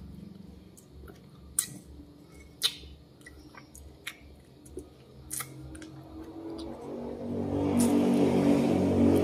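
Mouth sounds of someone eating small berries: sharp lip smacks and chewing clicks every second or two. About seven seconds in, a louder low hum with several steady pitches swells up and becomes the loudest thing heard.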